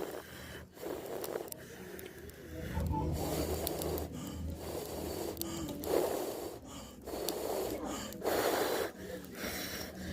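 A person blowing hard onto a campfire in a series of long, rushing breaths, each lasting a second or two with short pauses between them.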